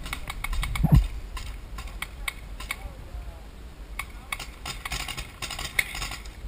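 Irregular sharp pops of paintball markers firing across the field, with a heavy thump about a second in and faint distant voices.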